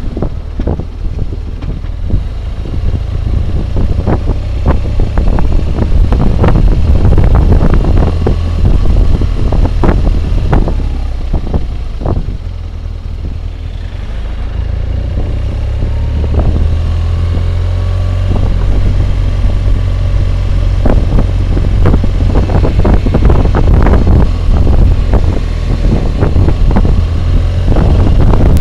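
Wind roar and buffeting on a helmet-mounted camera microphone while riding a BMW motorcycle at road speed, with the engine running underneath. The roar eases about halfway through, then builds again.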